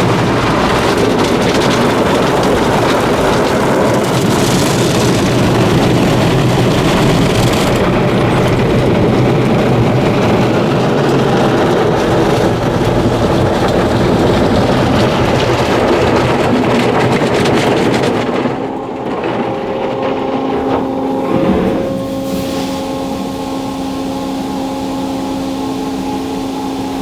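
D&S Odyssey soft-touch car wash brushes scrubbing over the car, with a loud, dense wash of noise. About two-thirds of the way through the scrubbing drops away, leaving a steady motor hum as the machine changes direction to start again from the back.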